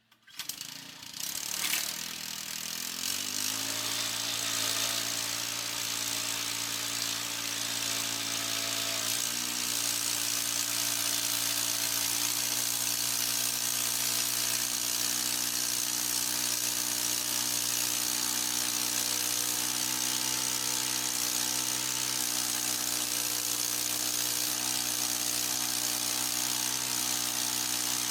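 Small gas engine of a band sawmill starting up and climbing in speed over the first few seconds, stepping up again about nine seconds in, then running steady with a high hiss over its tone.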